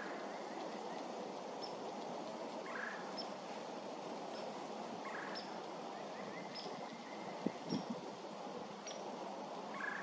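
Wild birds calling: short calls every few seconds and a high short note repeating about once a second, over a steady hiss, with three low thumps about seven and a half seconds in.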